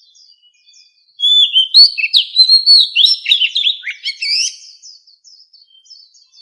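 Oriental magpie-robin singing: a loud, rapid phrase of varied whistles and slurred notes starting about a second in and lasting some three seconds, with faint scattered notes before and after.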